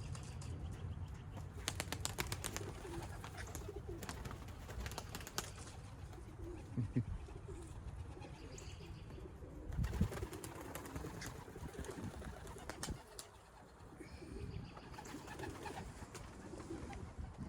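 Young racing pigeons cooing in low, wavering calls, with scattered sharp clicks and taps throughout.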